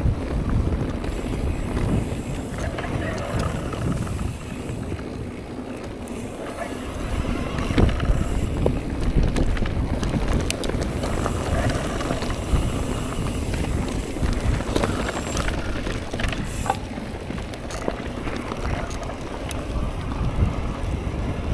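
Mountain bike being ridden over rough trail: wind buffeting the microphone and tyres rolling over dirt and rock, with frequent small rattles and knocks from the bike.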